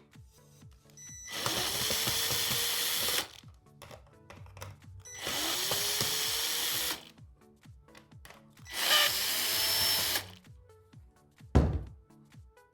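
A small electric power tool run in three bursts of about two seconds each, its motor pitch rising as it spins up and then holding steady, followed by a short low thump near the end.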